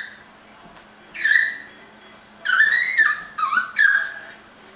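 A baby's high-pitched squealing yelps, his play at barking like a dog: one about a second in, then three more close together from about halfway.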